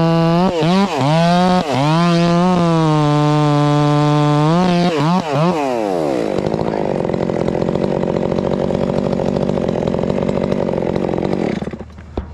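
Two-stroke chainsaw running at full throttle through a cut, its revs dipping briefly several times. About six seconds in it falls to a lower, rougher running, and it cuts off near the end.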